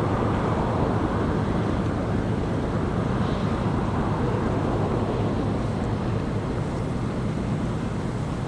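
Steady low rumble of the Ro-Ro passenger ferry Akebono Maru's machinery as it pulls away from the berth.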